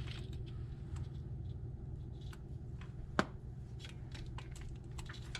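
Small clicks and light handling noises of hands working a wire connection, with one sharper click about three seconds in, over a steady low hum.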